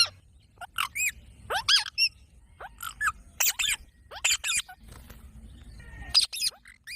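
Pet green parrot calling: a string of short, shrill chirps and squawks, each sliding up or down in pitch, coming irregularly with short pauses.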